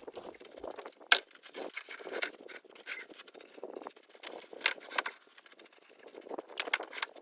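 Irregular light clicks, taps and scrapes of things being handled, with no steady sound behind them; the sharpest click comes about a second in.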